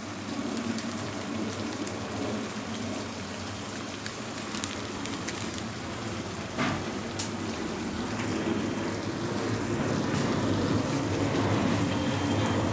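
Onion and spice masala frying in oil in a pan: a steady sizzle, with a couple of light utensil clicks a little past halfway.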